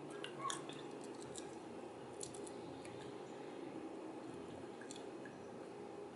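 Mouth noises of a person chewing a mealworm with lips closed: soft wet clicks and squishes, a cluster in the first second or so and another about two seconds in, with a few single clicks later, over a faint steady hum.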